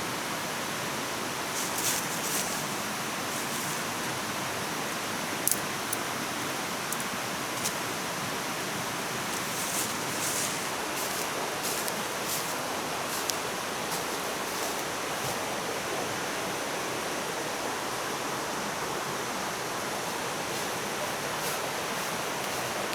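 Campfire crackling: sparse sharp pops, about one every second or two, over a steady rushing hiss.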